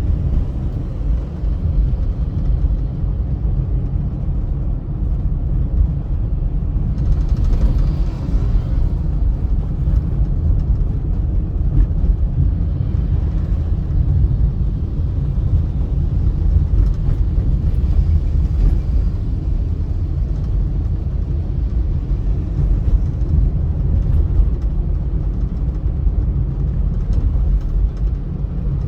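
Steady low rumble of road and wind noise from a car driving on a highway, with a higher hiss swelling up about seven seconds in and again near eighteen seconds.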